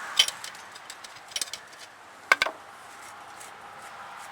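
Small metal hub parts and tools clinking a few times as they are handled, loudest a little over two seconds in with a brief ring, over a steady hiss.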